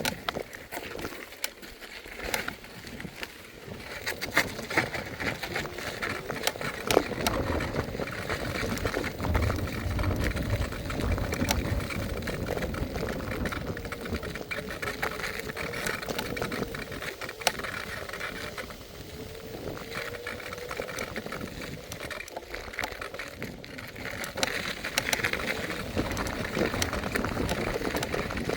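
Electric scooter riding: a motor whine that drifts up and down in pitch with speed, over steady road noise with frequent clicks and rattles, and a heavier low rumble for a few seconds about a third of the way in.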